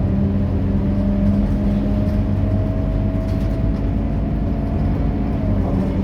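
Scania K230UB bus's diesel engine running steadily with a low hum, joined by a whine that rises slowly in pitch and drops away about five seconds in.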